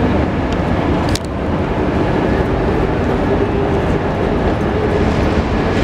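Thalys high-speed train pulling out of the station, a steady rumble with a faint steady whine over it. A brief click about a second in.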